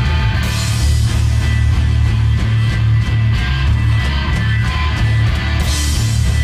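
Loud punk rock music, a full band with electric guitar and heavy bass.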